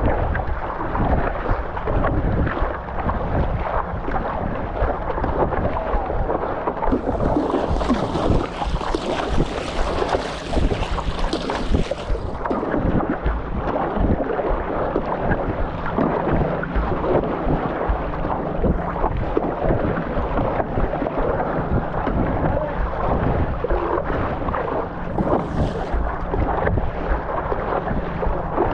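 Wind buffeting the microphone over rough, choppy sea water, a steady low rumble with water sloshing. A brighter hiss of rushing water or spray rises from about seven seconds in and stops about twelve seconds in.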